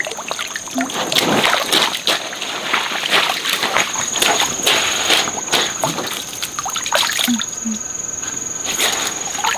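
Water splashing and sloshing in irregular bursts, as in wading or working in a stream. A steady, high-pitched insect trill runs underneath.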